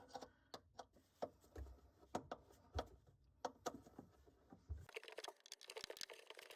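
Faint, irregular clicks and light taps of a screwdriver working at screws in a camper's wall panel.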